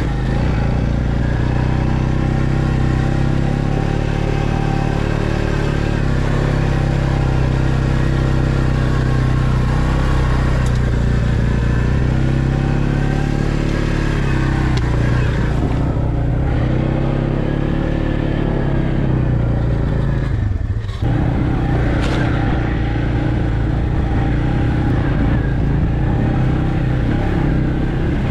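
Off-road vehicle engine running under load on a trail, its pitch rising and falling as the throttle opens and closes. Once, about three quarters of the way through, it briefly drops off before picking up again.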